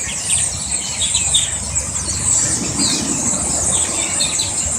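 A huge flock of birds calling together: a dense, continuous chorus of high squeaky chatter. A low engine rumble swells and fades in the middle.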